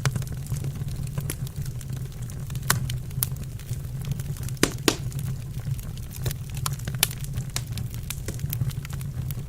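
Wood fire burning in a fireplace: a steady low rumble with irregular sharp crackles and pops, two louder pops a little under halfway through.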